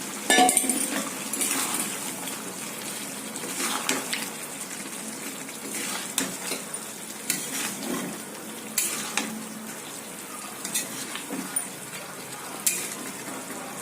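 Chicken and potatoes frying in masala, stirred with a spatula that knocks and scrapes against the pan at irregular intervals over a steady sizzle.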